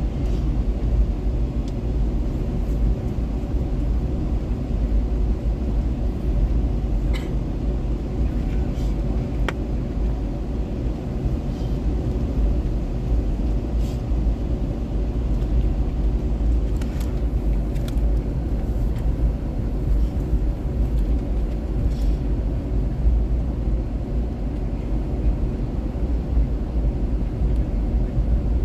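Steady low rumble of an Airbus A321 airliner heard inside the cabin as it taxis before takeoff, with a few faint clicks now and then.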